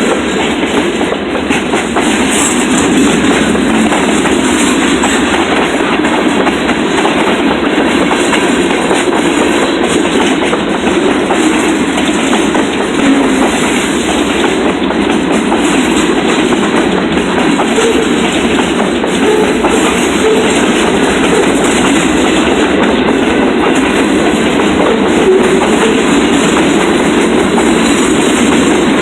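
Train cars rolling steadily past a crossing, wheels clicking and rumbling over the rails.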